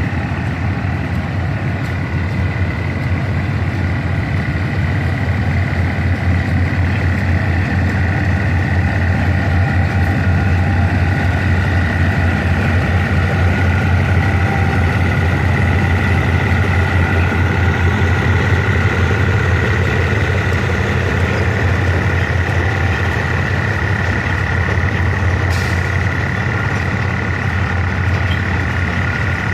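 Train running: a steady low rumble with a thin, steady high whine over it, swelling slightly in the middle.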